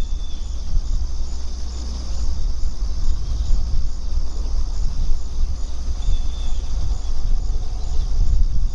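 A steady late-summer insect chorus: a high, even buzzing with a faint regular pulse, over a loud, constant low rumble. Two short high chirps come through, one right at the start and one about six seconds in.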